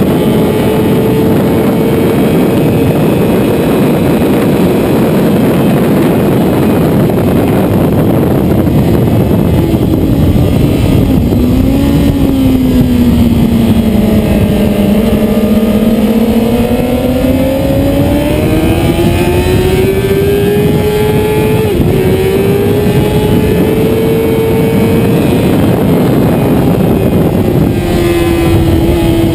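Racing motorcycle engine running hard at high revs. The pitch falls sharply about eleven seconds in as the bike slows, then climbs steadily again, with a brief dip about twenty-two seconds in like a gear change.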